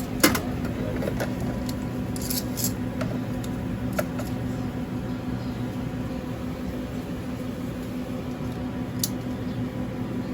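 Steady low electrical hum of kitchen equipment, with a few light clicks and taps of a sandwich being put together.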